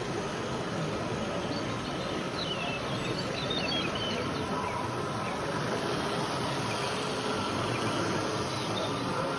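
Miniature Z-scale model train running on its track: a faint buzzing whir of the tiny motor and wheels under a steady wash of background noise, with a few faint high squeaks about two to four seconds in.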